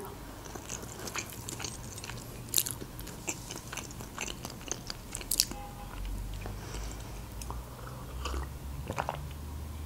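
Close-miked chewing of a mouthful of meat lasagna: soft wet mouth clicks and smacks, with a few louder clicks scattered through. Near the end comes a sip from a mug.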